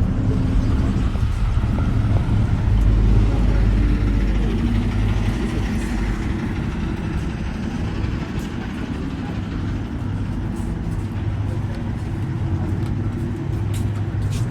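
Car engine running with a steady low drone that swells louder about three seconds in, then settles.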